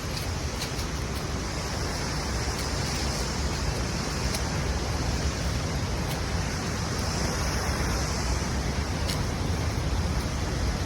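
Steady rush of a river running high and fast, with a low rumble of wind on the microphone and a few faint ticks.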